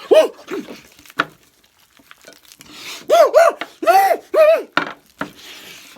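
A person's voice making short, high whooping hoots in imitation of a monkey, each rising and falling in pitch: a couple near the start, then a quick run of five or six from about three seconds in. A sharp knock comes about a second in.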